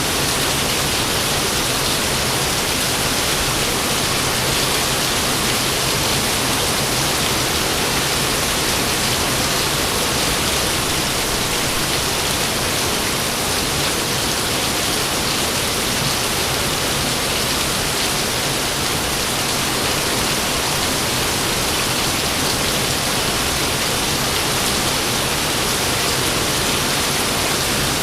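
Rain falling steadily in an even, unbroken hiss, with no thunder.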